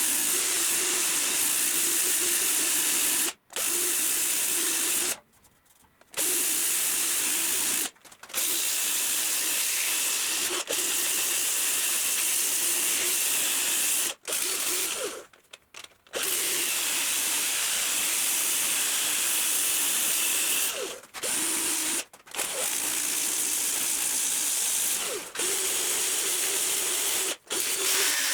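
A small electric power tool running steadily with a hissing grind against the work, broken about nine times by sudden silent gaps.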